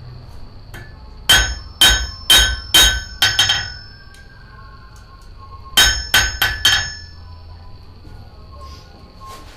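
Blacksmith's hammer striking an anvil with a bright metallic ring: a run of about six blows, a pause of two seconds, then four quicker blows.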